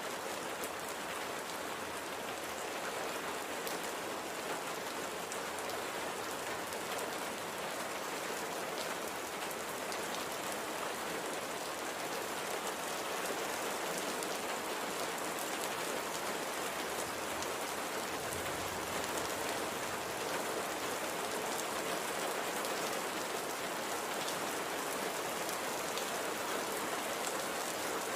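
Steady light rain falling, an even hiss of drops with faint scattered pattering on a surface.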